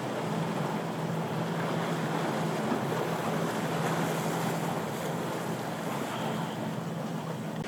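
Boat motors running with a steady low hum under the rush of waves and wind noise on the microphone.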